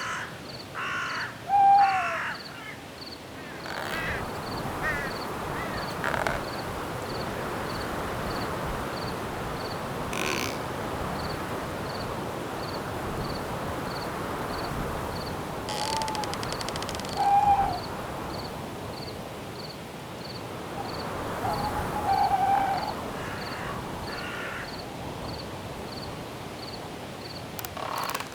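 Night forest ambience: wind hiss through the trees, a cricket chirping at an even pace of about once a second, and harsh bird calls now and then, a few with short whistled cries.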